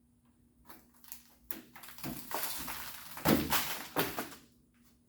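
Scraping and crunching as old, hardened factory sound-deadening insulation is worked loose from inside a car body panel, with a few light knocks at first and two sharp hits near the end.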